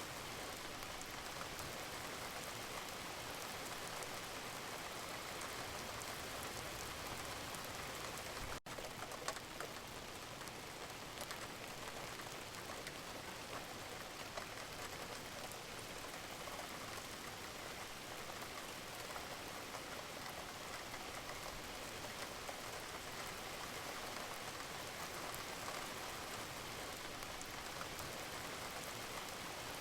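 Steady rain falling, an even hiss with fine patter of drops. About eight and a half seconds in the sound drops out for an instant and comes back with a small click, like a loop being joined.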